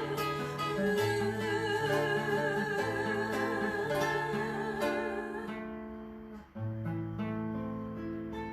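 Acoustic guitar playing the closing chords of a song while a singer holds a long final note with vibrato. The voice stops about five and a half seconds in, and the guitar plays a few last chords alone, fading.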